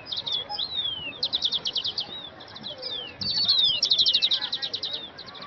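Small birds chirping: quick runs of sharp, high chirps at about ten a second, mixed with short whistles that slide downward. The longest, loudest run comes a little after the middle.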